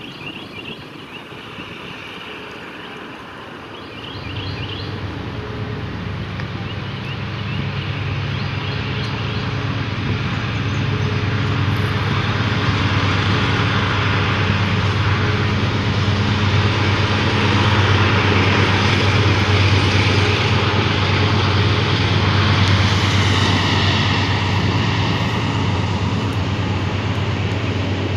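A train approaching and passing: a diesel locomotive's steady low engine drone comes in about four seconds in and grows louder, over a rising wash of rolling noise that is loudest near the end.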